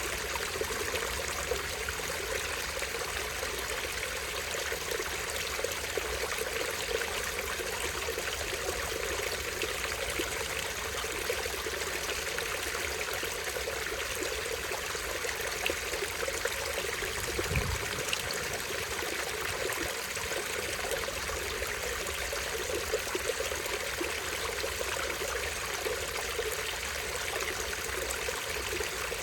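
Small stream running over a tiny waterfall: a steady rushing and trickling of water.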